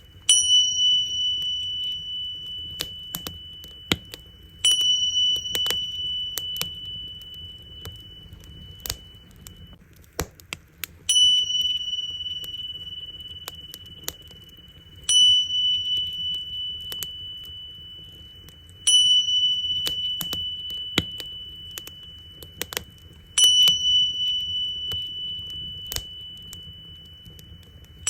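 Tingsha cymbals struck about every four seconds, each strike ringing high and clear and fading slowly. Under the ringing, a crackling bonfire snaps and pops steadily.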